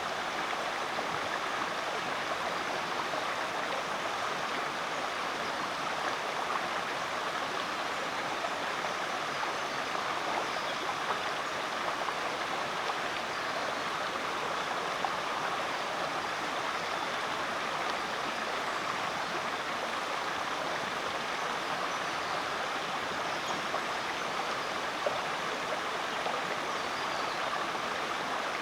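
Rainforest creek flowing: a steady rush of running water.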